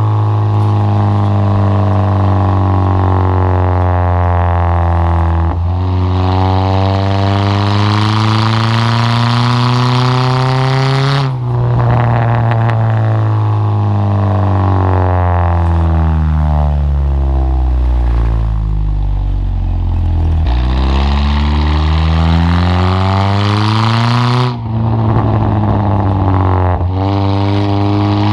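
Chevy S10 pickup with a drilled-out catalytic converter and full exhaust, loud under hard acceleration. The engine note climbs and drops sharply at upshifts about five and eleven seconds in, then falls steadily as the truck slows. It climbs again, with another upshift near the end.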